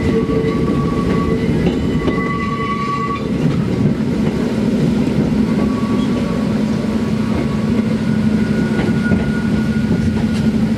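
Hakone Tozan Railway electric train running, heard from inside the carriage: a steady rumble of wheels on rail, with faint high wheel squeals coming and going, as it draws into a station.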